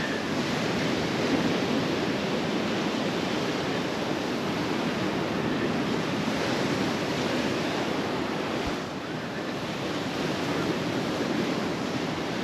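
Sea surf washing steadily onto a sandy beach, a continuous rushing wash that eases a little about nine seconds in.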